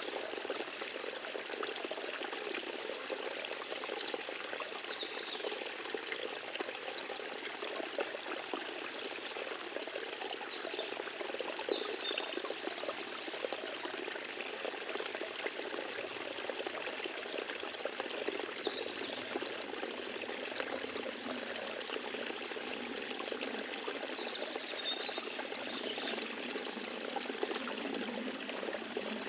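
Forest stream running steadily, its water trickling and splashing, with a few faint high bird chirps scattered over it.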